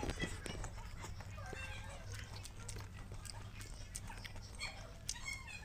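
Chewing a mouthful of rice and vegetables eaten by hand, with short animal calls in the background throughout.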